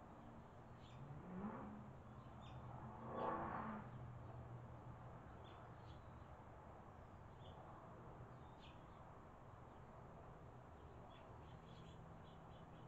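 Faint, scattered short high bird chirps over a low steady hum. About one to four seconds in, a motor vehicle's engine rises in pitch and swells, then fades away.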